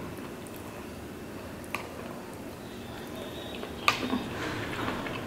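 Quiet eating sounds: tteokbokki rice cakes being chewed, with a short click about two seconds in and a sharper one near four seconds.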